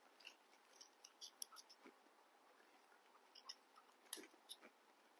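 Faint, scattered crisp crunches and clicks of people biting and chewing June apple (ambarella), with a couple of louder bites about two and four seconds in.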